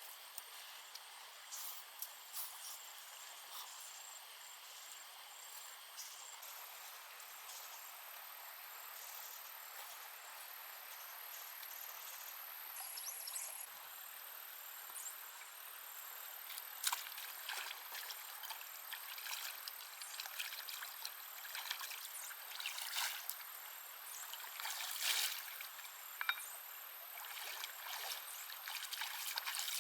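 Water trickling and sloshing, with scattered short clicks and splashes that grow busier about halfway through. A faint, steady, very high tone runs underneath from several seconds in.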